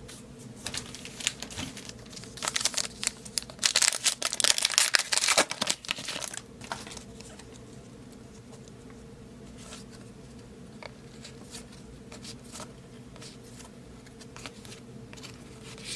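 Foil wrapper of a football card pack crinkling and tearing in a dense burst from about two and a half to six and a half seconds in, followed by scattered soft ticks of cards being handled. A low steady hum sits underneath.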